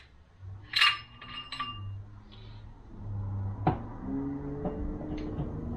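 Steel parts of a 42RE automatic transmission, the reverse planetary gear set among them, clinking on the workbench. A ringing metallic clink comes about a second in, a lighter one just after, and a few sharp knocks near the end.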